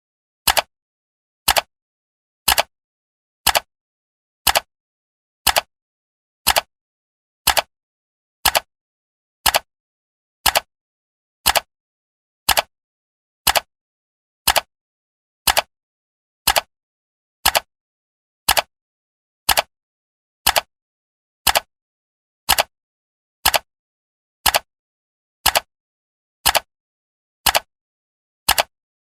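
Countdown timer ticking once a second, each tick a short sharp click with silence in between.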